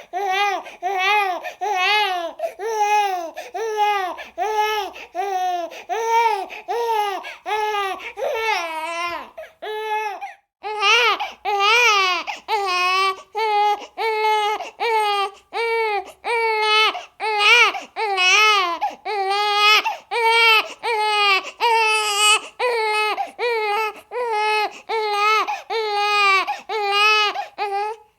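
A baby crying in short, repeated wails, about two a second, with a brief break about ten seconds in.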